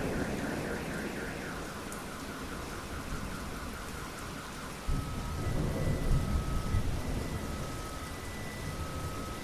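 Steady rain falling, with thunder rumbling: a rumble fades away early on and another breaks in suddenly about five seconds in and rolls on for a couple of seconds. A faint rhythmic high chirping runs behind the rain.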